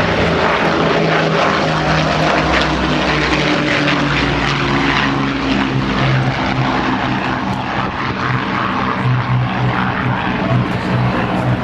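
Avro Lancaster bomber's four Rolls-Royce Merlin piston engines droning steadily in flight, the engine note dropping a little around the middle.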